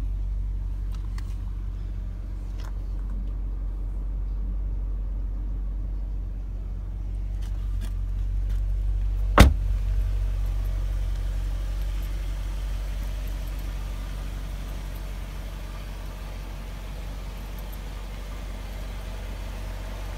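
Alpina B10 V8 engine idling steadily with a low hum. About nine seconds in there is one sharp thump, the loudest sound here, such as a tailgate or car door being shut.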